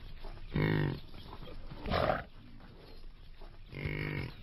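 Tiger calling: a short pitched growl under a second in, a harsher, rasping call about two seconds in, and another pitched growl near the end.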